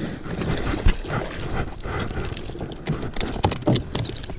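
Irregular knocks, clicks and rattles as a hooked largemouth bass is reeled in and landed in a kayak, with one sharp knock about a second in.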